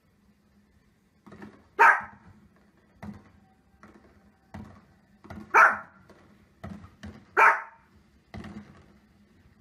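A small fluffy dog barks three times, sharp single barks a few seconds apart, at fireworks on a television. Fainter thuds from the television's fireworks fall between the barks.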